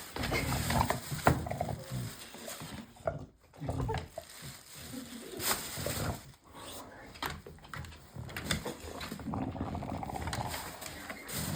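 A bulldog making low rumbling noises in stretches with short pauses while playing with a rope toy.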